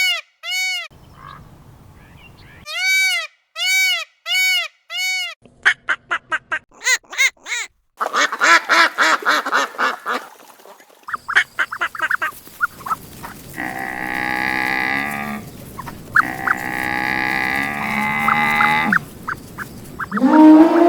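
A run of different farm-animal calls. First come repeated short, arched calls, then a burst of rapid chattering calls, then two long drawn-out calls of about a second and a half each.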